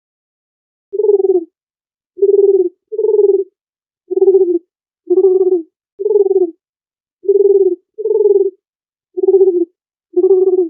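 A dove cooing: ten short, low coos of about half a second each, some coming in close pairs.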